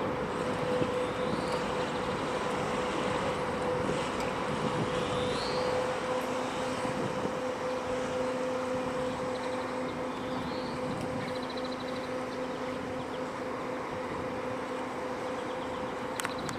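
Steady running of a river cruise ship's machinery with a constant hum, joined by a second, lower hum for several seconds in the middle. A few faint short rising chirps sound over it.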